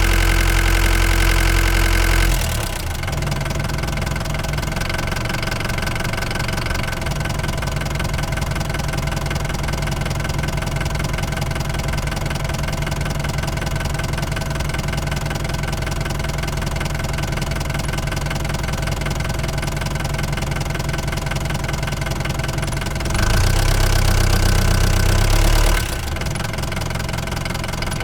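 Ford Transit Mk5 van's engine running on the move. Its note drops a little, to a lower steady level, about two seconds in, rises again for a few seconds near the end, then drops back.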